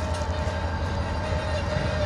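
Freight train running on the track close by: a steady low rumble with a thin, steady tone ringing above it.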